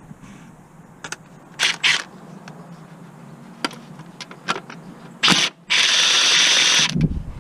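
Hand tools clicking and knocking on metal during clutch work on a car, with a steady hiss lasting about a second near the end.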